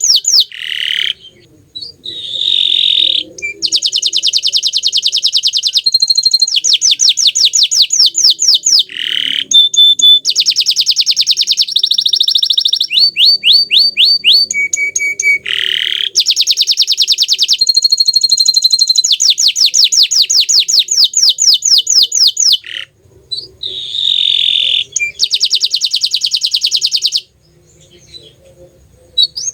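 Green domestic canary singing a long song of fast rolling trills and rapidly repeated high notes, switching to a new phrase every second or two, with a few brief pauses.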